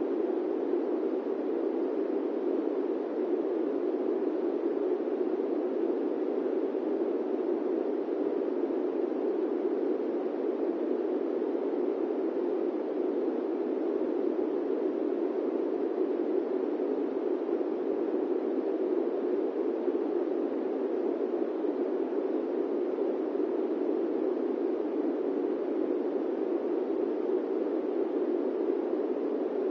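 Steady airplane-cabin white noise: an even, dull rushing that never changes.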